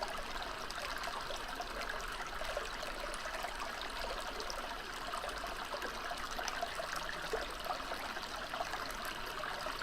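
Running water from a stream, a steady trickling and babbling.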